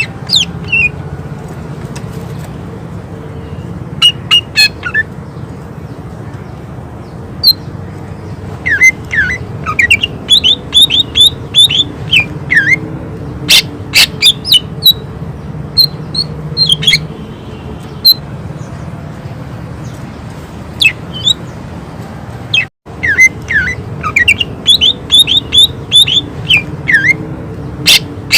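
Cucak ijo (green leafbird) singing in rapid volleys of short, sharp, downward-sweeping notes, the fast 'tembakan' style, with pauses between bouts, over a steady low hum.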